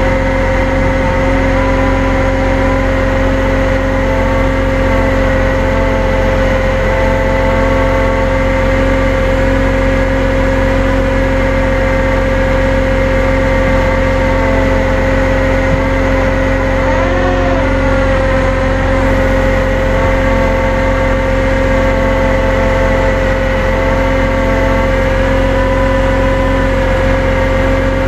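Tow truck engine running at a steady speed while it drives the winch, with a constant high whine over the engine note.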